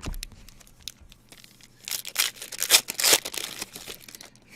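A trading-card pack wrapper being torn open and crinkled, in rough rustling bursts that are loudest in the middle.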